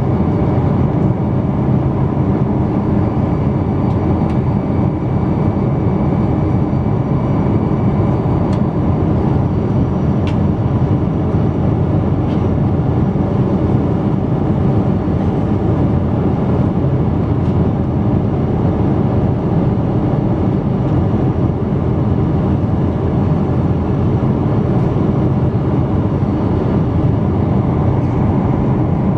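Steady loud cabin noise inside a Boeing 777-200 under way: the jet engines and airflow make a deep, even drone that does not change.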